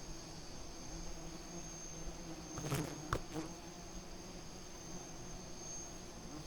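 Giant wild bees buzzing in a low steady hum, with a thin high steady insect drone over it and two brief knocks near the middle.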